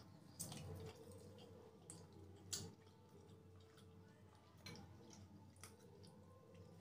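Faint close-up mouth sounds of soft steamed idli being chewed, with scattered wet clicks and smacks; the sharpest click comes about two and a half seconds in.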